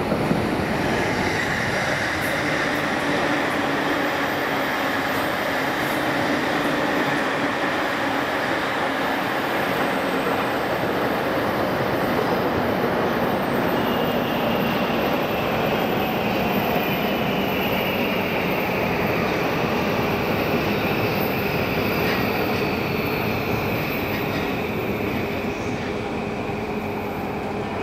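Electric commuter trains running on the tracks: a steady rumble of wheels on rail with a high whine that slowly falls in pitch from about halfway through.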